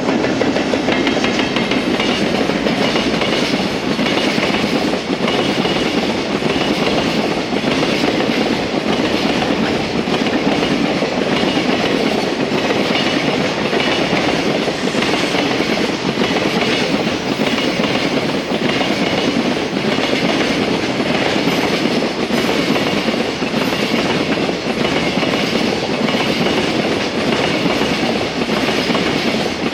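JR Freight train hauled by an EF210 electric locomotive passing close by. Its wagons rumble steadily and clatter rhythmically over the rail joints.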